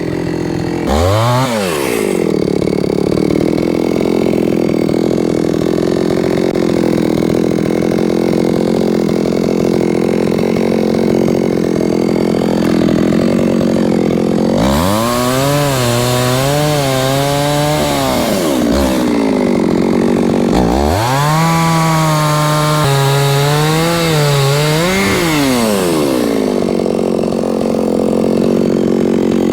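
Two-stroke chainsaw idling, blipped once about a second in, then run at full throttle twice for several seconds each, about halfway through and again a few seconds later. Its pitch wavers and dips as the chain is loaded in the wood, typical of cutting through a log, and it drops back to idle between and after the cuts.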